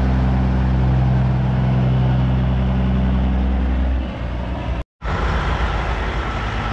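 Heavy truck diesel engine running at a steady idle, a deep, even hum. About five seconds in the sound cuts out for a moment and comes back as a rougher, noisier rumble.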